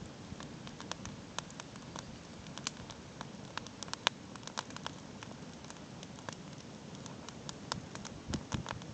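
Campfire crackling: irregular sharp snaps and pops over a low steady rush.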